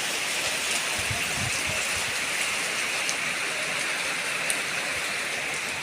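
Heavy rain falling: a steady hiss of rain with scattered drop ticks.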